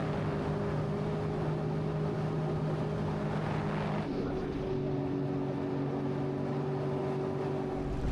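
Sea-Doo jet ski engine running steadily under way, its note shifting slightly about four seconds in as the throttle changes.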